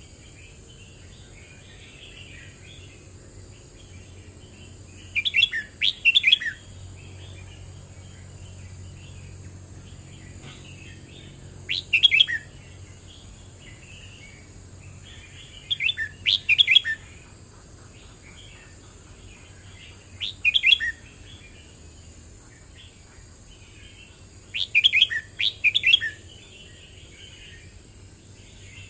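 Red-whiskered bulbul singing: short, loud, warbled phrases of about a second, repeated roughly every four to five seconds, with softer chattering between them.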